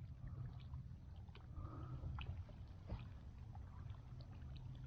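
Faint water lapping and small ticks at a kayak hull, over a steady low hum.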